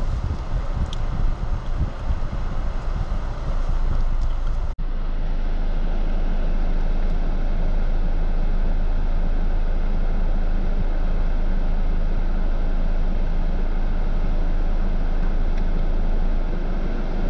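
A 4x4 vehicle driving with its engine running, with gusty wind noise on the microphone at first. About five seconds in the sound cuts to a steady, even engine drone.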